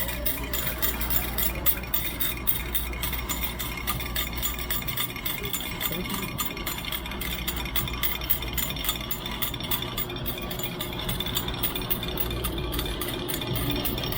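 Coin change machine paying out a $20 note as quarters, a fast, steady run of coins clinking into the metal tray. A low machine hum runs underneath and drops out for a few seconds near the middle.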